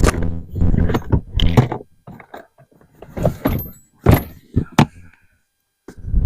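Clatter and thunks of items being handled and knocked into a storage container, in irregular bursts with a couple of sharp knocks.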